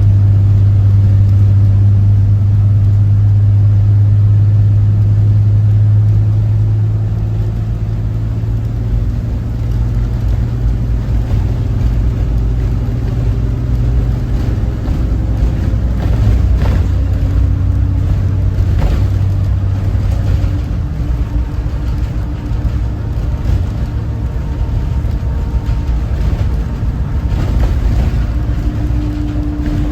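Cummins ISB 6.7 straight-six diesel of a Thomas Saf-T-Liner C2 school bus running under way: a steady low drone that eases off about six seconds in, then shifts in pitch, with a few short rattles or knocks in the second half.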